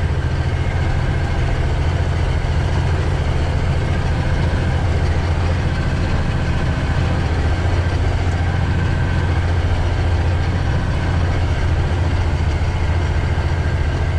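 Diesel truck engine running steadily, a constant low hum heard from inside the cab while driving.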